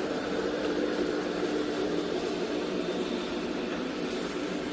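Yeedi M12 Pro+ robot vacuum-mop running as it cleans the floor, a steady whirring hum with a low tone that fades about halfway through.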